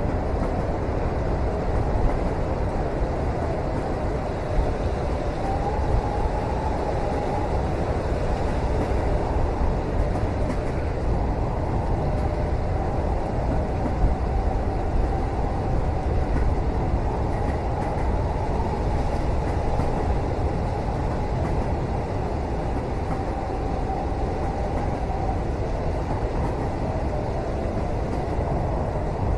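Steady rumble of a moving train heard from inside a passenger cabin, with a faint wavering whine over it and a few light knocks.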